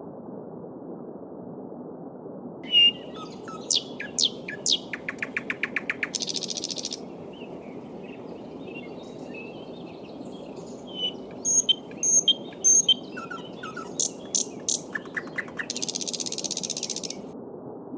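Small songbirds singing in bright chirps, whistles and rapid trills, including two high buzzing trills of a couple of seconds each, over the steady rush of a babbling stream.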